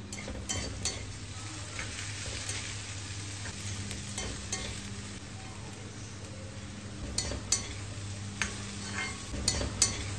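Vegetable pieces sizzling as they shallow-fry in hot oil in a pan, with a spatula stirring and knocking against the pan every so often.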